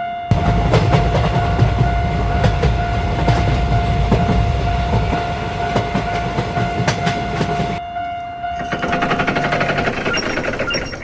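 Train-passing sound effect: a loud rumbling clatter with rail-joint clicks under a long held horn-like tone. The rumble cuts off suddenly about eight seconds in, and a fast rhythmic rattle takes over near the end.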